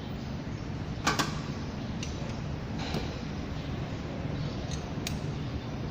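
A few sharp knocks and clinks of tools on metal engine parts, the loudest about a second in, over a steady low hum.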